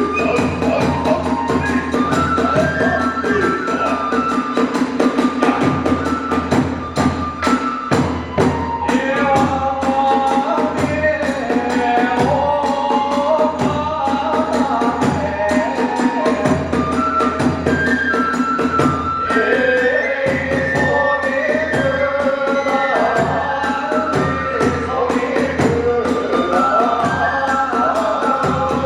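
Kagura hayashi music: a melody over fast, steady beats of drum and small hand cymbals.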